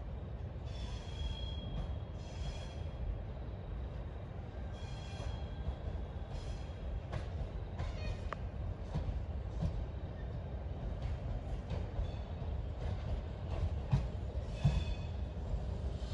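Electric suburban train approaching on curved track: a steady low rumble that slowly grows, with several brief high wheel squeals on and off and a couple of sharper knocks near the end.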